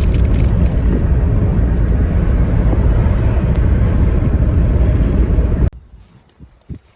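Loud, steady rumble of a car in motion, low-heavy road and engine noise, which cuts off suddenly nearly six seconds in.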